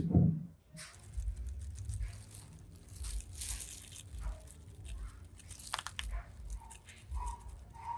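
A low thump at the start, then irregular scraping and rubbing noises with scattered sharper strokes, like materials being handled and worked.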